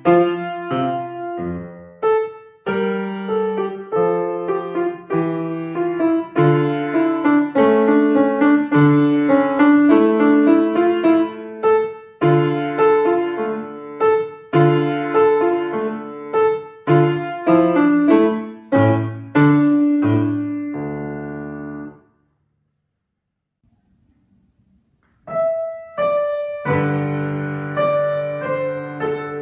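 Piano playing a passage of notes that ends on a held low chord about 21 seconds in. After a few seconds of silence the piano starts playing again.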